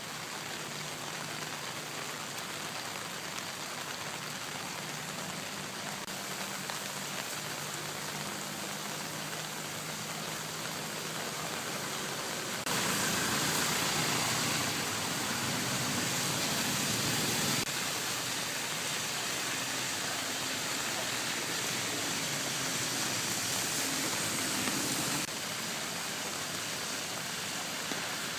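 Heavy rain falling in a steady hiss. The level jumps abruptly louder about 13 seconds in and drops back again a few seconds before the end.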